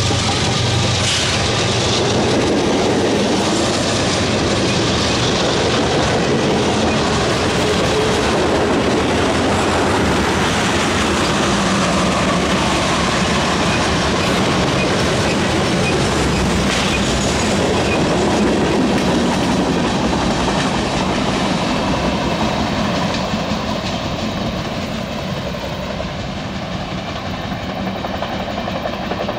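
Freight train cars rolling past on the rails, a steady clatter of steel wheels on track. It fades in the last several seconds as the end of the train moves away.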